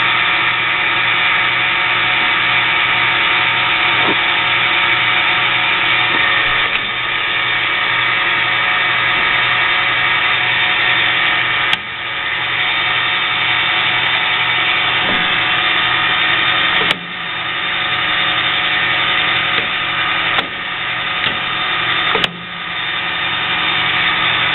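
Clausing-Harrison M300 13" x 40" engine lathe running under power, with a steady geared whine and hum from the headstock and feed gearing while the carriage travels on its longitudinal power feed. Four sharp clicks come in the second half, each with a brief drop in level.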